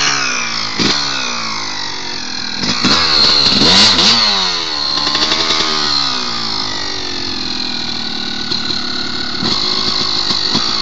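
Yamaha YZ motocross bike engine running with the bike standing still. The revs rise and fall several times in the first few seconds, then settle to a steadier, lower run with small blips.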